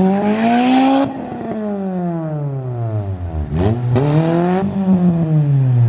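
Race car engine revving hard, its pitch climbing for about a second, then falling for a couple of seconds as it slows, then climbing and falling once more.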